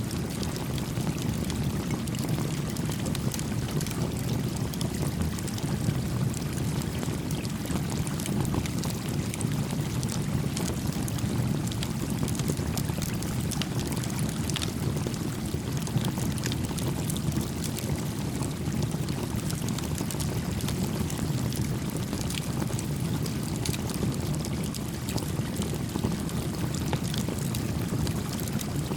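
A small stream flowing steadily, with a small campfire crackling over it in many scattered sharp pops.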